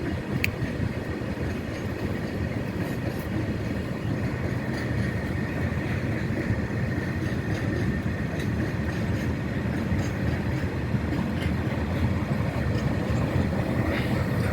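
A train running along the track: a steady rumble of wheels on rails, with a faint thin high tone from about four seconds in.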